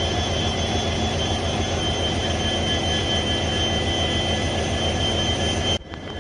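Heavy engine running steadily at a constant pitch, with a deep hum and a steady high whine over it; it cuts off suddenly near the end.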